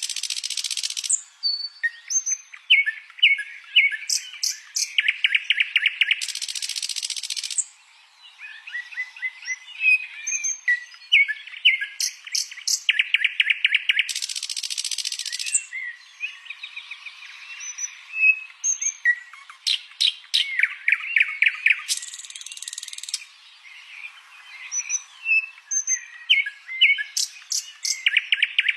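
Songbird song in repeating phrases of rapid, buzzy trills mixed with sharp high clicks and short whistles. Each phrase ends in a harsh hissing burst about a second long, and the cycle comes round about every seven to eight seconds.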